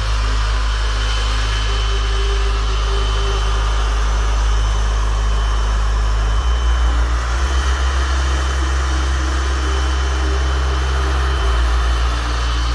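Grundig 21.6V cordless cyclonic vacuum cleaner running steadily: a whirring motor with a thin high whine over a rush of air. The low hum under it shifts abruptly twice, about six and eleven seconds in.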